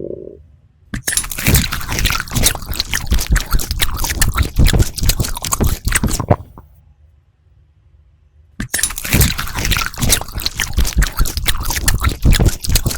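Close-miked eating sounds: loud, wet, crackling chewing in two stretches of about five seconds each, with a quiet pause of about two seconds between.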